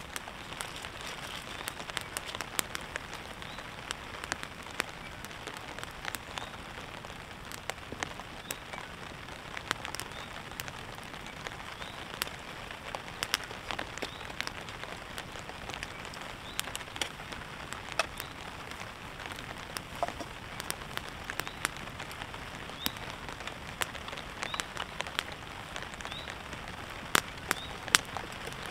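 Steady rain falling on a tarp: an even hiss with frequent sharp ticks scattered through it.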